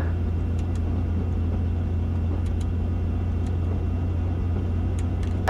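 Robinson R44 helicopter's engine and rotor running steadily at ground idle, a constant low hum heard through the intercom feed. A few faint clicks sit on top of it.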